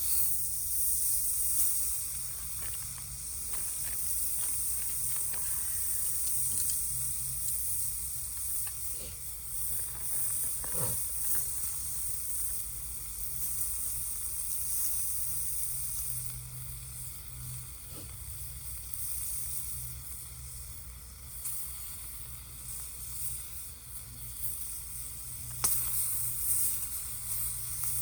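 Bacon frying in a pan over a wood gas stove: a steady high sizzle with scattered small pops and crackles.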